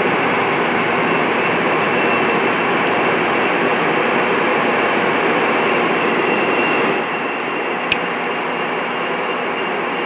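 CB radio receiver static: a steady hiss of band noise from the open channel after the transmission ends. It drops a little in level about seven seconds in, and there is one short click near eight seconds.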